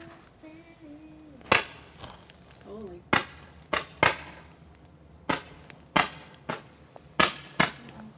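Fireworks going off: a string of sharp bangs, about nine in eight seconds at uneven intervals.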